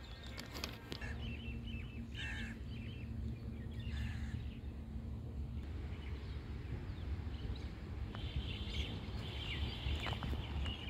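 Scattered bird chirps and calls over a steady low outdoor rumble.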